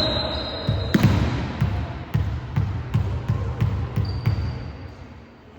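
A basketball bouncing on a hard court in a steady dribble, about two bounces a second, with one sharper smack about a second in.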